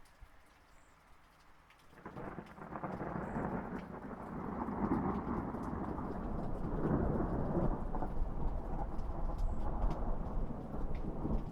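Light rain falling, then about two seconds in a long roll of thunder starts and builds into a heavy, sustained rumble over the rain.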